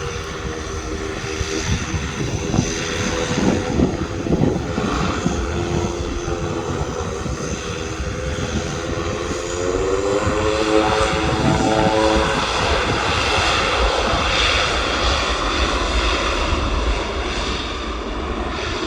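Aircraft engines running nearby: a steady hum that rises in pitch about ten seconds in, giving way to a louder, even rushing engine noise.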